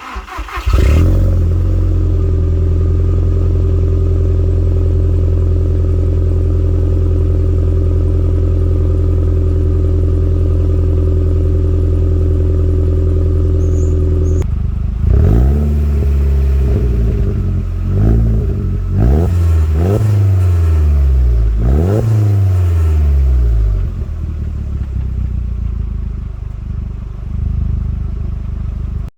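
SEAT Leon Cupra R's 1.8-litre turbocharged 20-valve four-cylinder (BAM) engine starting up through a new non-resonated Cobra catback exhaust and idling steadily. About halfway through it is revved four times, each rev rising and falling back, then it settles back to idle.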